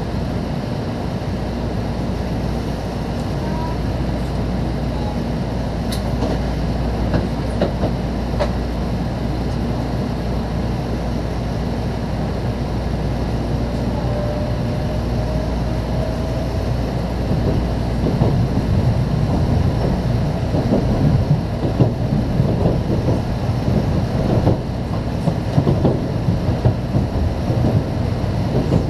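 Cabin noise inside a Shinkansen car as the train pulls out of the station and picks up speed: a steady rumble with a few sharp clicks over the track and a faint rising motor whine. The rumble grows louder and rougher in the second half as the train gathers speed.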